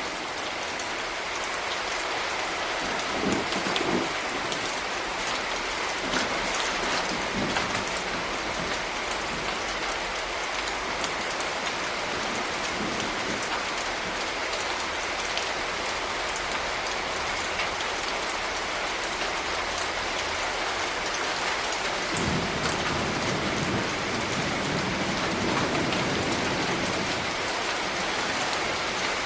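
Steady rain falling on hard urban surfaces, a dense even hiss with individual drops ticking through it. A low rumble swells briefly about three seconds in and again for several seconds past the twenty-second mark.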